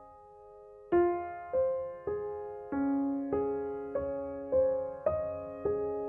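Background piano music: single notes struck one after another, starting about a second in, each ringing and fading before the next.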